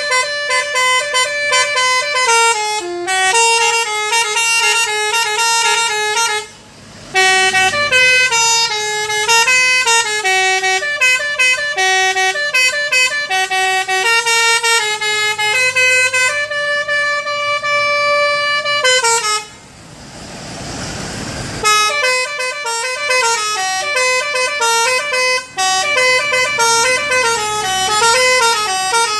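A truck's basuri horn, a set of tuned air horns, playing a melody of stepped notes sounded several at once like chords. The tune breaks off briefly about a quarter of the way through. About two-thirds of the way through, a couple of seconds of rushing noise take the place of the notes before the tune resumes.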